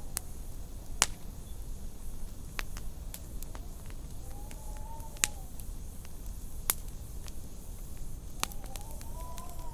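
Wood fire crackling with scattered sharp pops, the loudest about a second in, over a steady low rumble. Wind howls in faint rising and falling whistles around the middle and again near the end.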